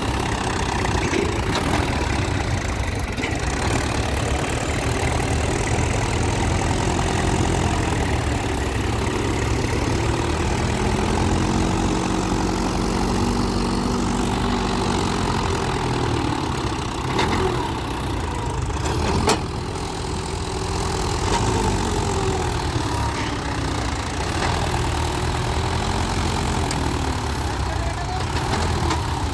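Mahindra Yuvo tractor's diesel engine running steadily, its pitch rising and falling around the middle as it works, with one sharp knock about two-thirds of the way through.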